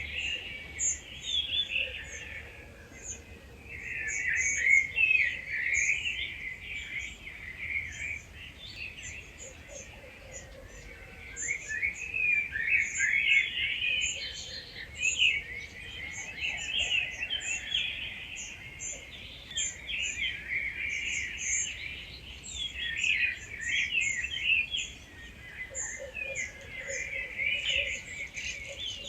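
Dawn chorus: several wild birds singing at once in dense, overlapping phrases. Short, very high-pitched notes repeat throughout above the main song.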